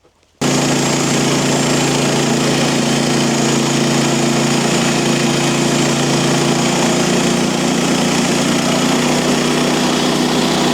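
Mechmaxx band sawmill's gasoline engine running steadily at constant speed. It cuts in abruptly about half a second in and cuts off abruptly at the end.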